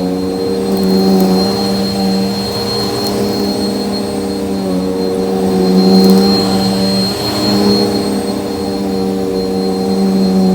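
Bissell vacuum cleaner running while vacuuming a floor: a steady motor hum with a high whine over it, the pitch dipping slightly a few times.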